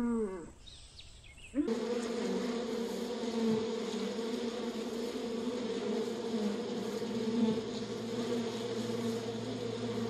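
Honeybees on the comb buzzing in a steady, even-pitched hum that starts a couple of seconds in, after the tail of an animal call at the very start.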